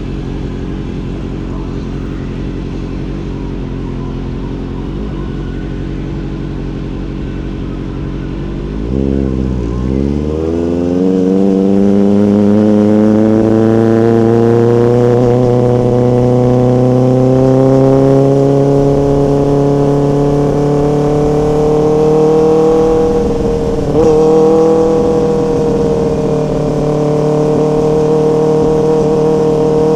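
Motorcycle engine running steadily at low revs. About nine seconds in it dips, then rises smoothly in pitch as the bike accelerates and settles into a steady, louder cruise, with a short wobble in pitch later on.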